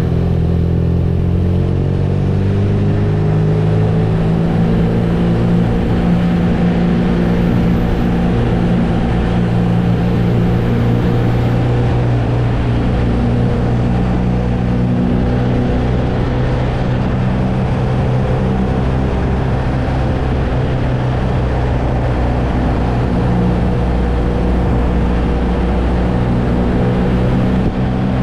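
BMW R nineT's boxer twin running at a steady cruise under wind and road noise. The engine note drops slightly in the first second, then holds steady.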